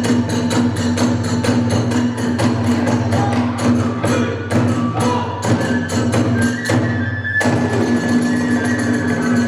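Kagura hayashi accompaniment: fast, driving drum strikes and clashing hand cymbals several times a second, with a high flute melody coming in over them in the second half.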